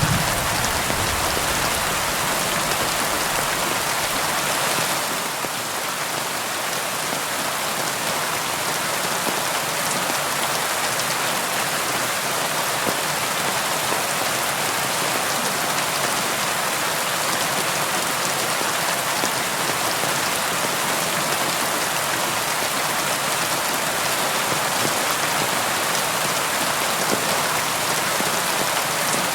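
Steady rainfall: an even, dense hiss of many raindrops. A low rumble dies away in the first second.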